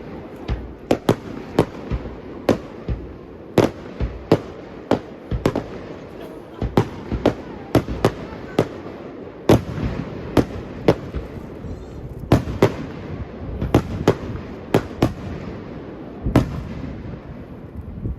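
Fireworks going off in a rapid, uneven series of sharp bangs, roughly one or two a second, over a continuous background noise.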